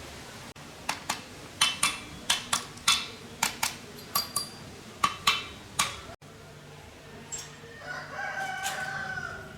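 About fourteen sharp, ringing knocks, mostly in quick pairs, like metal being struck, over the first six seconds. Near the end a rooster crows once.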